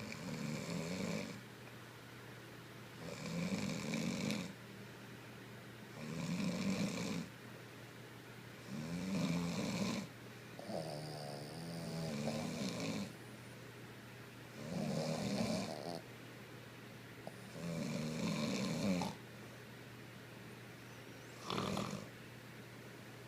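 Boston terrier snoring in her sleep, a snore every three seconds or so. One snore about halfway through is longer and rattling, and the last one is short.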